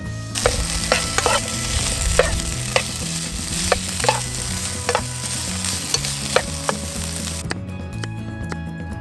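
Pork and broccoli sizzling in a hot frying pan while a utensil stirs and scrapes in it, with scattered sharp clicks. The sizzle starts under a second in and stops suddenly about seven and a half seconds in.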